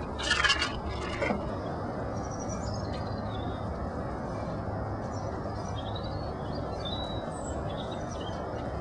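Birds outdoors: one loud call lasting about a second right at the start, then small birds chirping faintly now and then over a steady low background rumble.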